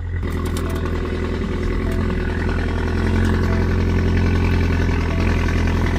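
2014 Ford Edge Limited AWD's 3.5-litre V6 engine idling steadily.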